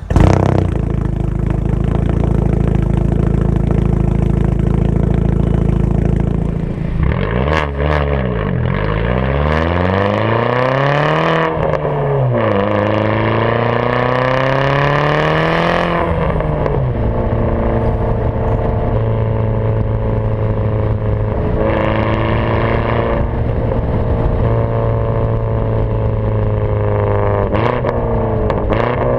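Big-turbo Audi B5 A4 engine on a cold start: it fires up suddenly and runs at a steady, loud idle, then the revs rise and fall several times before settling back to a steady running note.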